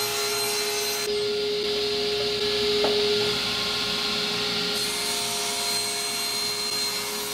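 A power tool running steadily and cutting wood: an even motor hum under the rasping noise of the cutter in the wood.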